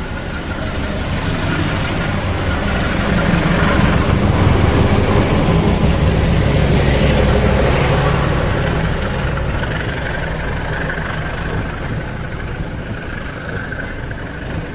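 Heavy diesel engine running with a deep, steady hum. It grows louder over the first few seconds, peaks, then eases off, typical of a diesel locomotive approaching and passing.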